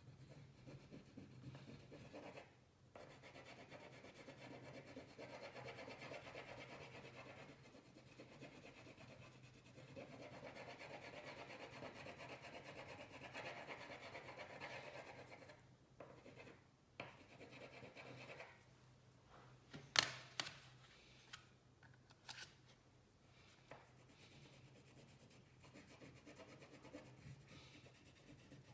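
Faint scratchy rubbing of colouring strokes on paper, in long back-and-forth stretches, with a few sharp clicks and taps about two-thirds of the way through, the loudest a single sharp click.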